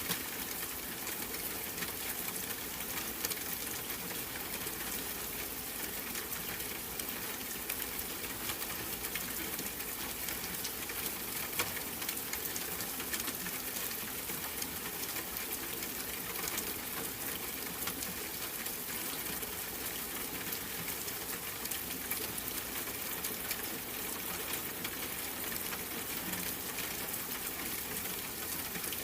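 Steady rain falling: an even hiss with fine, dense patter that holds constant throughout.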